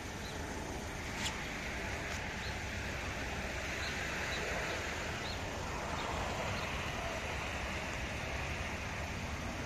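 Steady rush of jet engine noise with a low rumble from a British Airways Airbus A380-841's Rolls-Royce Trent 970 engines, swelling slightly about a second in.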